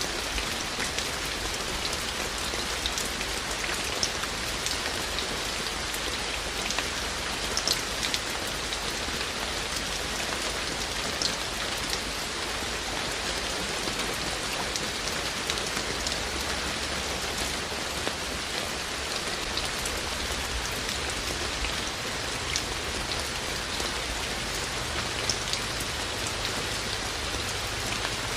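Steady rain falling, an even hiss with scattered sharper drops hitting surfaces close by.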